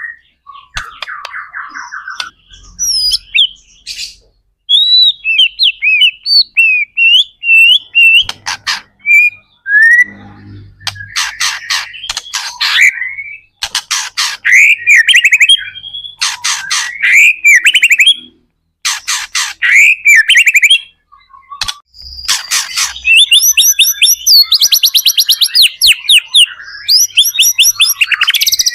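White-rumped shama (murai batu) singing loud, varied song, mixing clear rising and falling whistles with rapid trills and chattering phrases, broken by short pauses.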